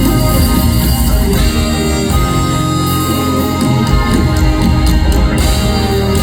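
A live band playing loud, continuous music, led by electric guitar over bass.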